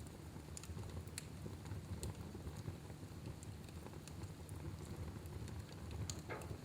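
Wood fire burning in a fireplace: a steady low rumble with scattered sharp crackles and pops, and a brief louder sputter about six seconds in.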